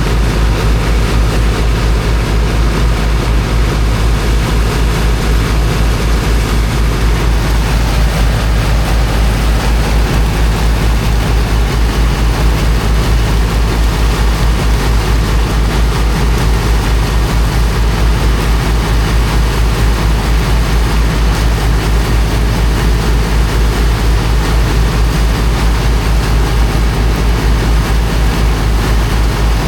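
Heavy engine of a high-pressure water pump running steadily at constant speed, with a low, even, rapid pulse, over a steady rushing hiss.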